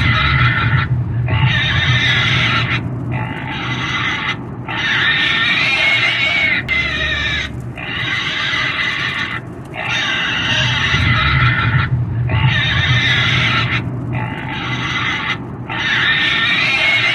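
Pig squealing over and over, a string of long shrill squeals each a second or two long with short breaks between them, over a low rumble.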